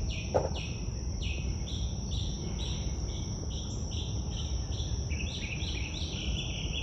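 Insects chirping in a steady rhythm of about two to three chirps a second, over a continuous high-pitched insect drone.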